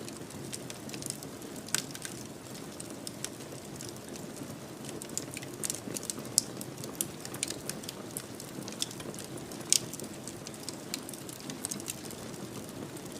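Wood fire burning in a fireplace: a steady low rush of flames with frequent, irregular crackles and pops, a few of them sharper and louder than the rest.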